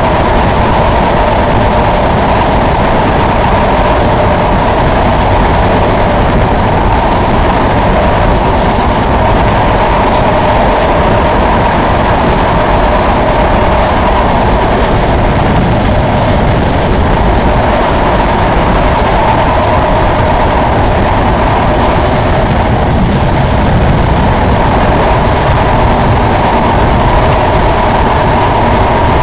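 Passenger train coach running at speed, heard from its open door: a steady, loud rush of wheel-on-rail noise and air, with a steady hum running through it.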